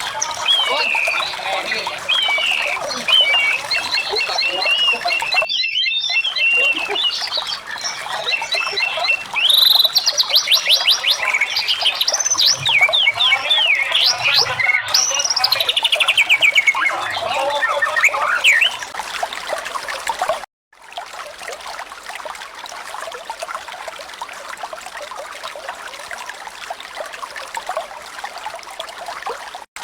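Edited montage of eagle calls: repeated whistling screams that glide up and down, with rapid trills, over a steady hiss, broken by short cuts. After about 20 seconds the calls stop and only a steady rushing noise like running water remains.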